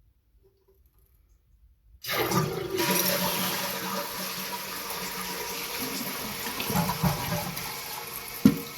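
Water suddenly rushing into a toilet about two seconds in, after near silence, then running steadily and slowly easing off as the tank takes water. A single sharp knock near the end.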